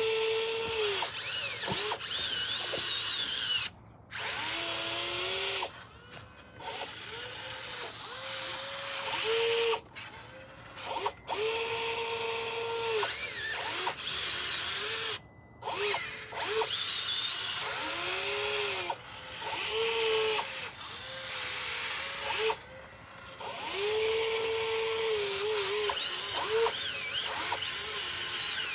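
Small electric motor of a radio-controlled model construction machine, most likely the hydraulic pump of an RC excavator, whining in repeated bursts of a few seconds each. Its pitch sags and recovers in some bursts, as if the motor is working under load.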